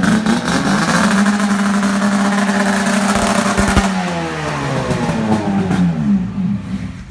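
A vehicle engine running at a steady high pitch, then its revs falling away over the last few seconds until the sound drops off near the end.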